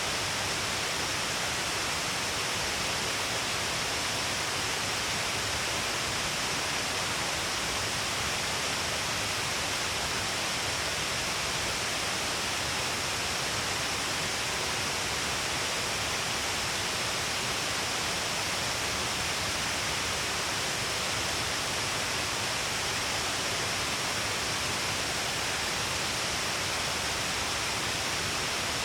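Shiraito Falls, a broad curtain of waterfalls pouring down a cliff: a steady, unbroken rush of falling water.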